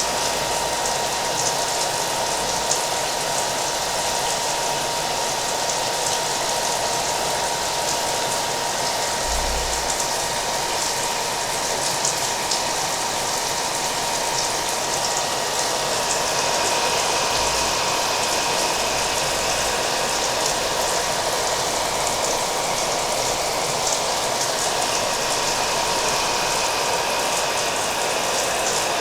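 Hair dryer running steadily, its whooshing airflow carrying a steady whine, layered with a continuous rain sound with faint scattered drop ticks.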